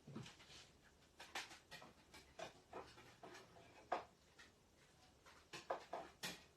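Near-silent room with faint, scattered small clicks and taps, the sharpest about four seconds in and a few more near the end.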